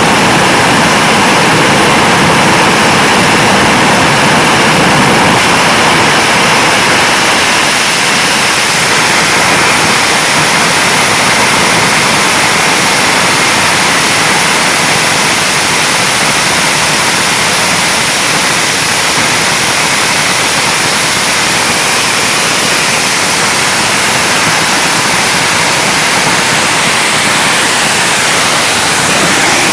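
Tornado GR4's Turbo-Union RB199 turbofan running in reheat during a ground performance check: a steady, very loud roar of jet noise that holds constant with no change in pitch or level.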